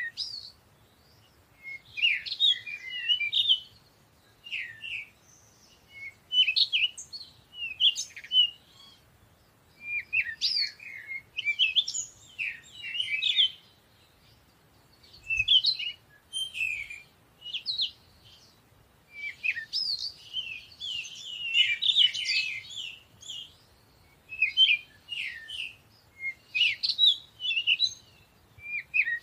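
Small songbirds chirping and twittering in repeated short bursts of song, each lasting a second or two with brief pauses between.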